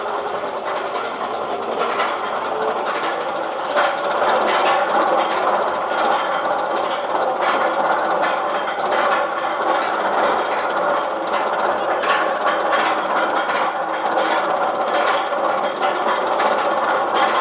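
Roller coaster train climbing Magnum XL-200's lift hill: the lift chain runs steadily under the cars while the anti-rollback ratchet clacks rapidly.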